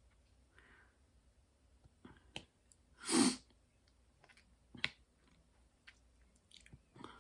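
Scattered small clicks and taps of close-up handwork on a diamond painting, with one louder, longer rustling noise about three seconds in.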